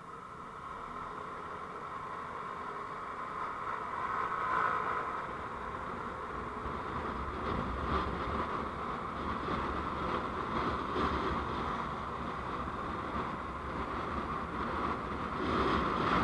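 Steady road and engine noise of a moving vehicle, growing louder over the first few seconds and then holding level.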